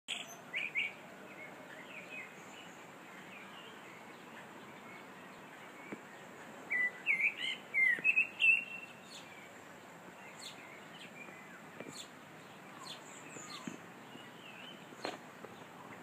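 Small birds chirping and singing over a steady background hiss, with a run of louder, quick chirps around the middle.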